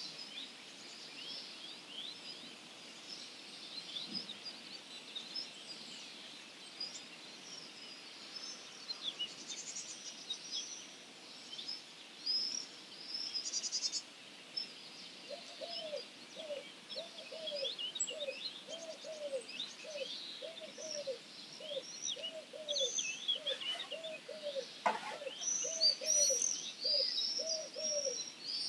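Dawn chorus of wild songbirds: many high chirps and twittering song phrases throughout. From about halfway a low, repeated series of hooting notes joins in, around two a second.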